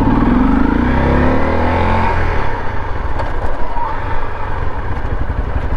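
Motorcycle engine running under way, its pitch falling over the first couple of seconds, then a steady rush of engine and wind noise.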